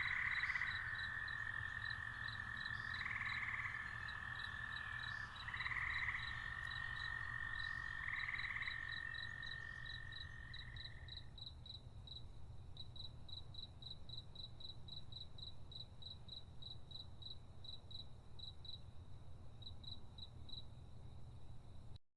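Night-time chorus of crickets and frogs: a pulsing chirp about four times a second, over a continuous trill that swells every two or three seconds and stops about halfway through. The sound cuts off abruptly just before the end.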